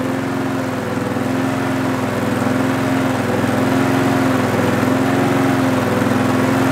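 Homelite V35 lawnmower engine running steadily, its pitch wavering slightly up and down in a mild surge but pretty smooth. The owner reckons the air filter was causing the surging trouble.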